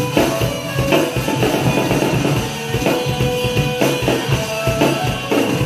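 Drum kit played along with a recorded rock song with guitar, a steady, driving beat.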